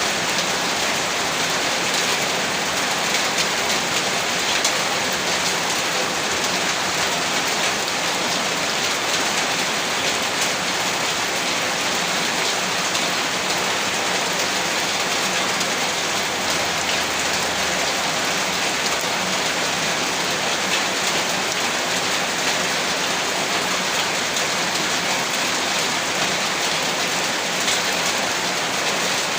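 Steady heavy rain falling on a rooftop: a dense, even hiss with no thunder.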